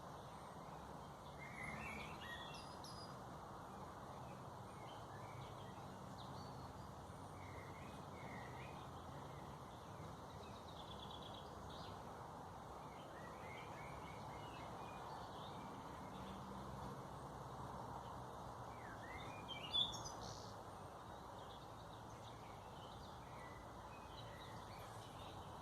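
Songbirds chirping and calling in short, scattered notes over a steady background hiss, with one louder, sharper call about twenty seconds in.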